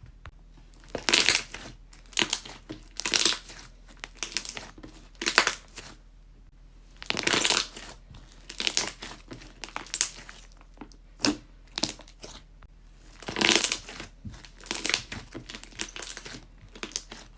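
Slime being squeezed and pressed by hand, its trapped air bubbles popping in crackling bursts of snaps about every one to two seconds.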